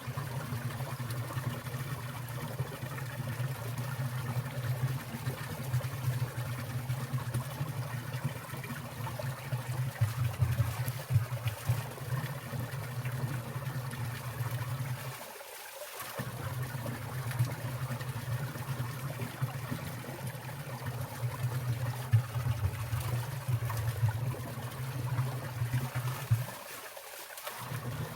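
Winter valley stream trickling and splashing, with water dropping from icicles. The steady low rumble under it drops away briefly twice, about halfway through and near the end.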